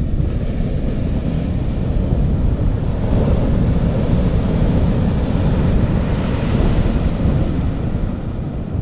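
Sea waves breaking and washing up a beach, with a wave's rushing hiss swelling from about three seconds in and fading near the end, over a steady low rumble of wind on the microphone.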